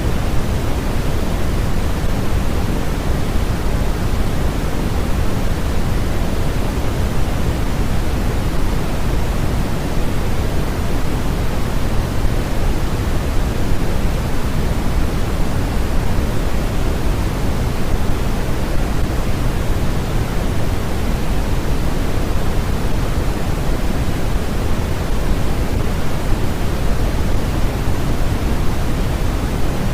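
Steady synthetic noise from a sleep and relaxation noise track: an even, unbroken hiss that stays the same throughout. It is weighted toward the low end, closer to pink noise than to flat white noise.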